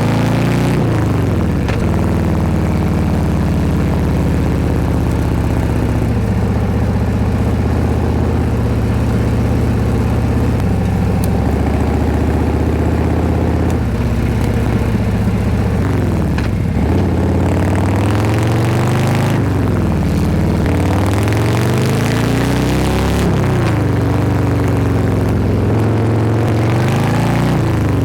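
Harley-Davidson Road King Special's V-twin engine running on the road, steady for the first dozen seconds or so, then falling and rising in pitch several times in the second half as the revs drop and build again.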